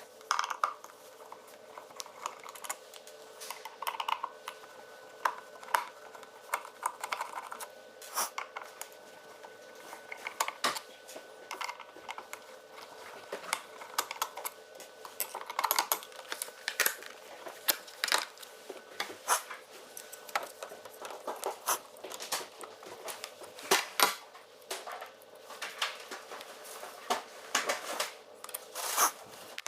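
Irregular clicks and metallic clinks of small metal parts and tools being handled while working on a bathroom exhaust fan, over a faint steady hum.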